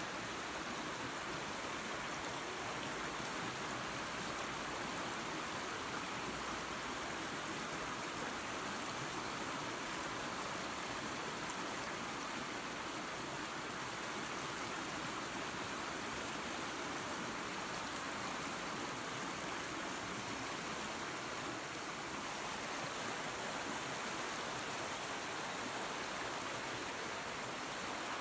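Waterfall and creek water rushing steadily, an even hiss-like roar without breaks.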